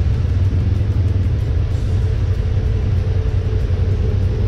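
Honda Pioneer 1000 side-by-side's engine running steadily under way, a continuous low rumble.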